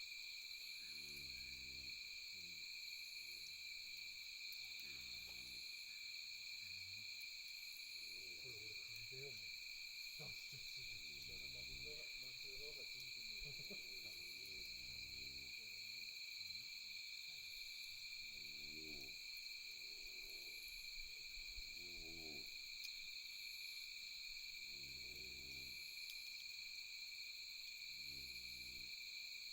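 Steady night chorus of insects, several high trilling tones held without a break, with a short low call repeating every two seconds or so beneath it.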